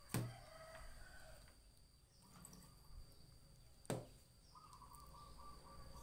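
Faint outdoor ambience: two sharp knocks about four seconds apart, then a quick even run of short bird calls near the end, over a thin steady insect whine.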